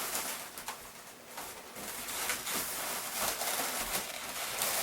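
Inflated latex modelling balloons rubbing and squeaking against each other and against hands as a twisted balloon sculpture is handled and positioned.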